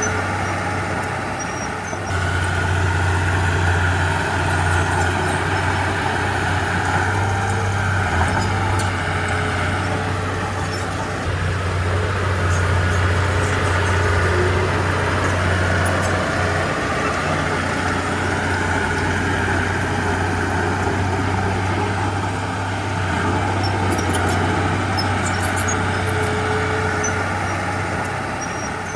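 Komatsu D31P bulldozer's diesel engine running under load. The engine note swells and eases every several seconds, with faint clinks over it.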